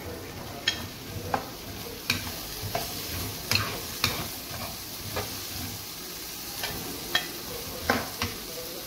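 Boiled black chickpeas sizzling in hot oil and spice masala in a wok as they are stirred with a spatula. The spatula knocks against the pan in sharp, irregular clicks.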